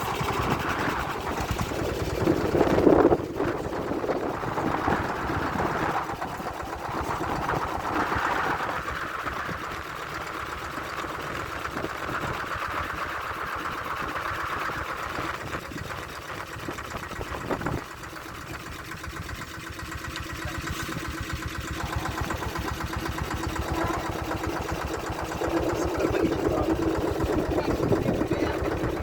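Boat engine running steadily with a rapid, even pulse.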